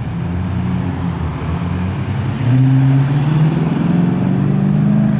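A car engine as a car drives in. It gets louder about two and a half seconds in, then rises slowly in pitch as the engine picks up revs.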